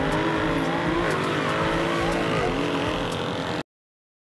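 Turbocharged four-cylinder car engine accelerating hard, its pitch climbing and then dropping sharply about three times as it upshifts, with a few short cracks around the shifts. The sound cuts off suddenly near the end.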